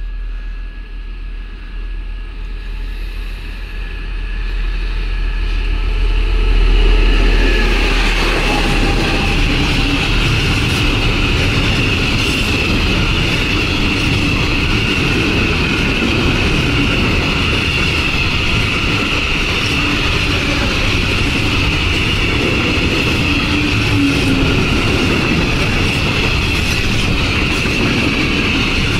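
A DB Cargo class 233 diesel locomotive passing close by: its low engine hum builds and is loudest about seven seconds in. Then a long string of Facs hopper wagons rolls past with a steady rumble of wheels on rail and a continuous high rail hiss.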